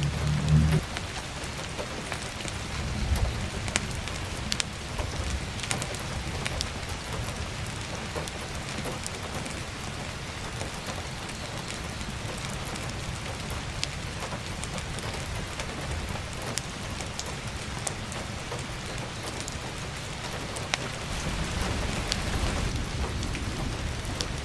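Steady heavy rain on a roof and skylight with scattered sharp crackles from a wood fire. A low rumble comes in the first second and again near the end.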